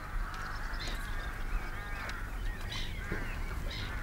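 Birds calling: several short pitched calls, the clearest about two seconds in.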